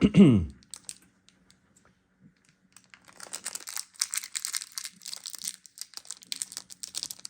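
Packaging crinkling and rustling as it is handled, in irregular bursts that start about three seconds in after a quiet pause.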